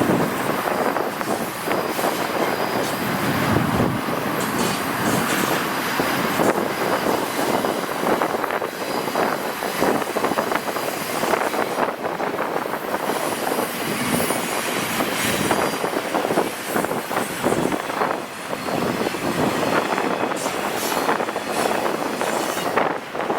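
Freight cars of a long intermodal train rolling past, a steady rumbling clatter of steel wheels on the rails with frequent short clanks.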